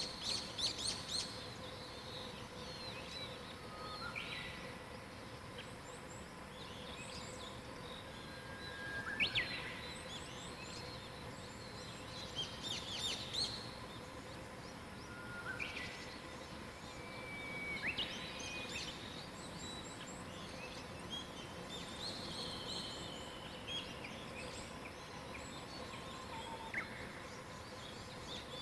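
Wild songbirds singing in a mountain forest, several birds overlapping with short chirps, whistled notes and quick falling phrases throughout, over a faint steady hum.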